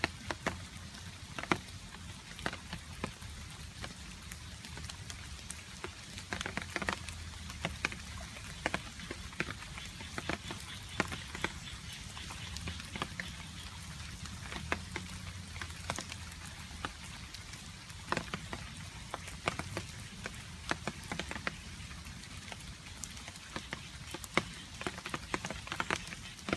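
Rain falling, with water drops dripping onto a surface: irregular sharp drip ticks, some louder than others, over a steady hiss of rain.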